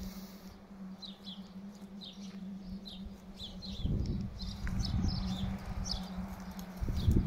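Small birds chirping repeatedly, short high chirps scattered throughout, over a steady low hum. Low rumbling on the microphone about four seconds in and again near the end.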